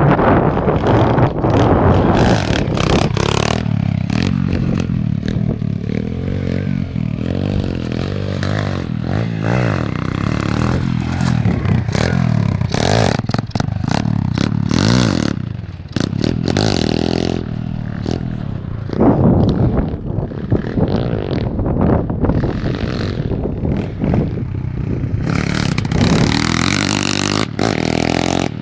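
Small pit bike engine being ridden, its revs rising and falling again and again, with rattling and scraping knocks throughout.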